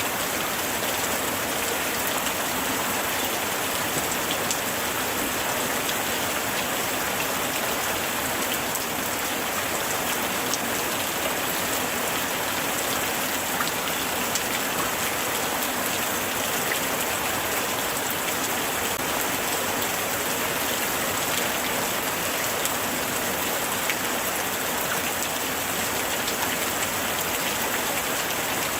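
Steady light rain falling on a surface, a dense even patter with individual drops ticking through it.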